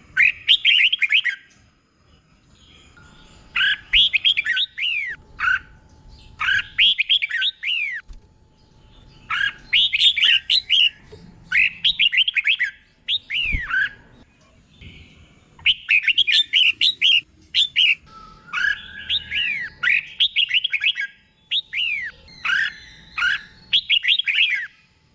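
Red-whiskered bulbul song: bursts of quick, bright down-slurred whistled notes, each phrase about a second long, repeated every second or two with short pauses between.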